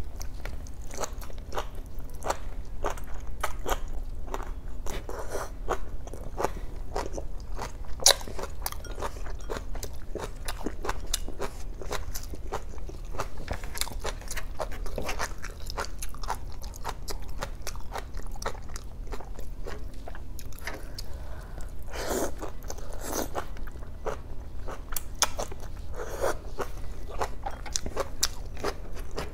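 Close-miked chewing and biting of boiled water spinach (kangkong) stems: a continuous run of small crisp crunches and wet mouth clicks, with a couple of louder bites about three quarters of the way through.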